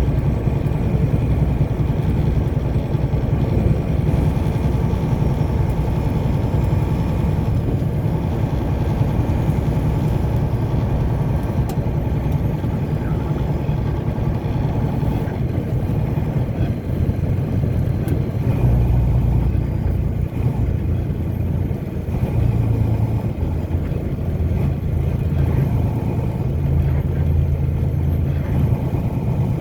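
A car driving at steady speed: a continuous low rumble of engine and tyres on the road.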